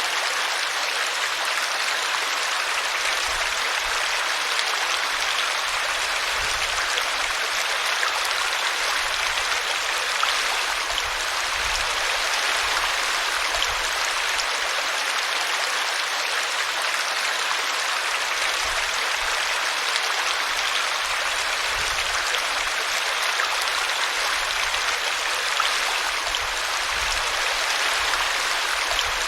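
Small brook running over a tree root: a steady, unbroken rush and splash of water.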